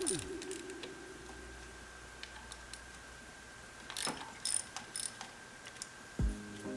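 Socket ratchet clicking in short runs as the 10 mm bolts holding the ignition coils on a Nissan Sentra 2.0L engine are worked loose. There is a few sharp clicks about four seconds in and more clicking near the end, with a brief metallic ring at the start.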